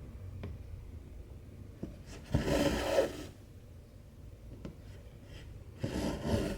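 Cotton embroidery thread pulled through cross-stitch fabric twice: two rasping swishes, each just under a second long, about three and a half seconds apart, with a few faint ticks between them.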